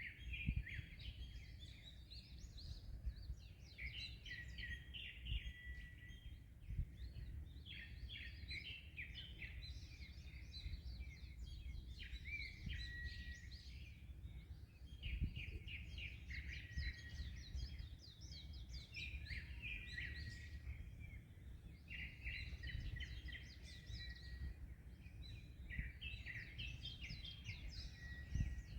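Songbirds singing without pause in quick repeated chattering phrases, broken by short steady whistled notes, over a steady low rumble of wind and surf.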